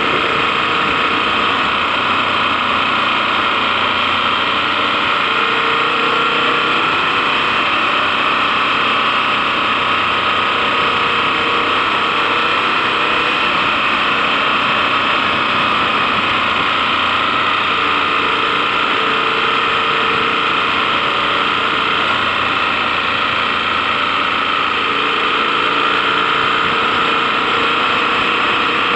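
KTM 1090 Adventure's V-twin engine running steadily under way, mixed with a constant rush of riding noise.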